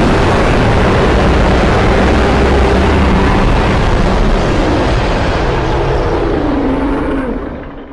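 A designed monster roar sound effect: one long, loud, rumbling roar with a heavy low end, held for about seven seconds and then fading out near the end.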